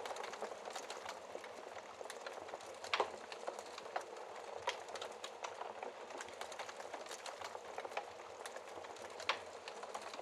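Wood fire crackling in a fireplace: a steady hiss of burning with many sharp crackles, and two louder pops about three and nine seconds in.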